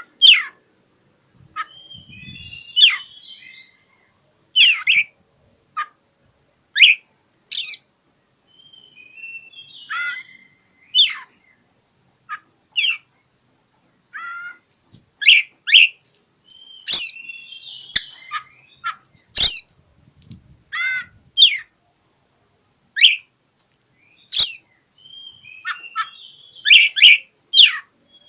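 Oriental magpie-robin (kacer) singing: loud, short, separate phrases of whistles and scratchy notes, one every second or two, with quieter twittering between them.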